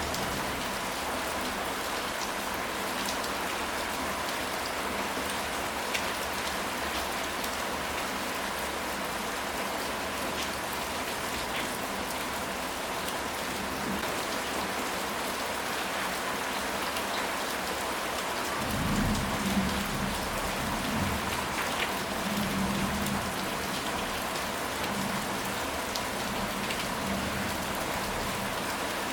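Steady rain falling, an even hiss with scattered drops ticking on a surface. About two-thirds of the way through, a low rumble of distant thunder rolls in for several seconds and fades.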